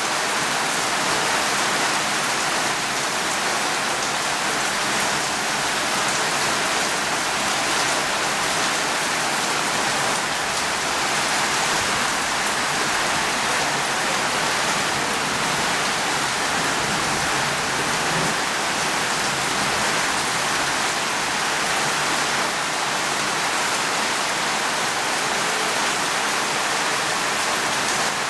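Steady rain falling on a surface, an even hiss of many drops with no thunder and no change in strength.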